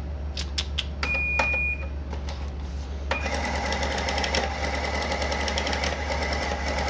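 Electronic cash register being operated: a few key clicks and a short beep, then about three seconds in its receipt printer starts a fast, steady chatter. A steady low hum sits underneath.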